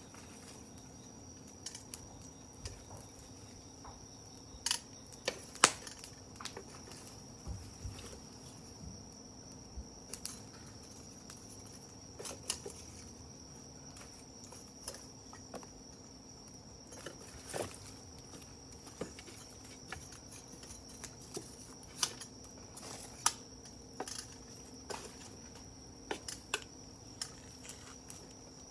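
Wood fire crackling, with irregular sharp pops, over a steady high-pitched insect drone.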